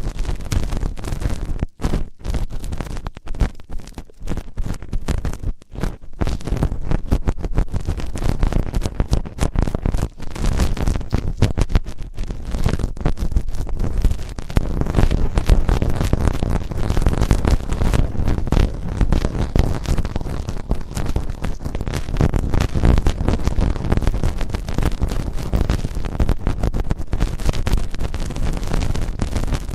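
Ear-cleaning sounds close against the microphone: continuous scratching and rubbing made of dense, rapid crackles and clicks.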